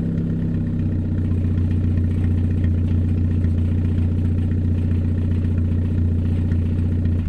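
Car engine running through a damaged muffler, the exhaust note steady and even. About a second in the tone shifts lower and fuller, then holds.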